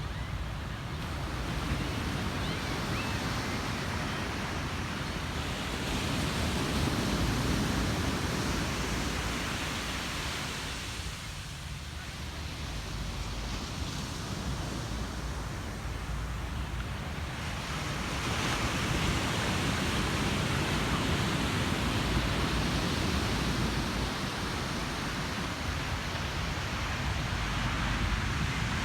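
Ocean surf breaking and washing ashore: a continuous rush that swells and ebbs, easing off about eleven seconds in and building again from about eighteen seconds.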